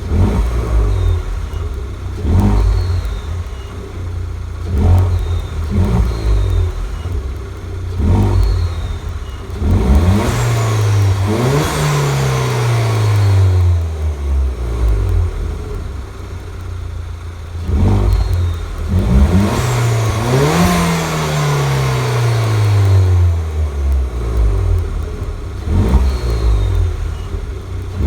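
Citroën DS3 Racing's 1.6 THP turbo four-cylinder, fitted with a carbon intake kit and aftermarket exhaust, idling and blipped several times. It is then revved up twice, each time sweeping back down slowly to idle, with a faint falling whistle after the revs.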